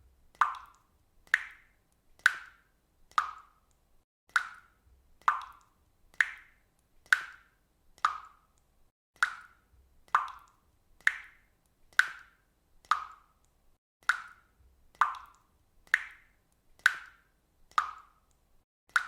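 Water dripping steadily, single drops falling about once a second, each a short, clear plop.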